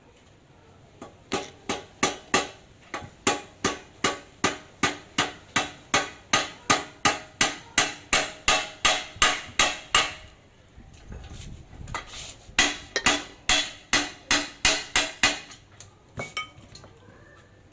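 Hammer striking metal in a steady run of ringing blows, about three a second, then a short pause and a second, briefer run of blows.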